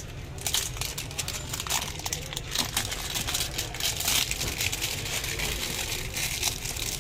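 A mobile phone's cardboard retail box and its packaging being handled and opened: irregular rustling and crinkling with scattered small clicks.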